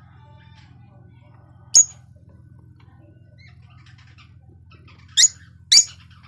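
Rosy-faced lovebirds calling: three sharp, high chirps, one about two seconds in and two close together near the end, with faint soft twittering between them. A steady low hum runs underneath.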